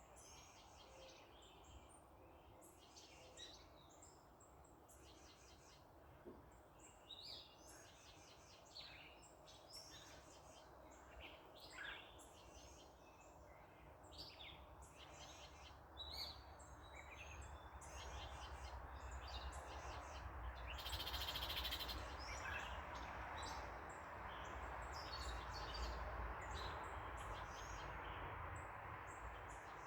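Small birds chirping in quick, repeated short calls, over a steady hum of road traffic that grows louder about halfway through. There is a brief hiss about two-thirds of the way in.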